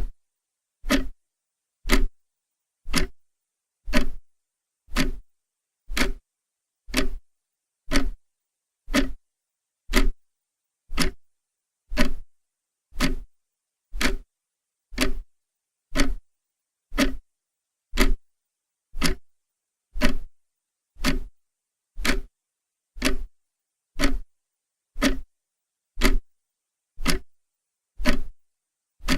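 Clock ticking steadily, one sharp tick a second, with silence between ticks.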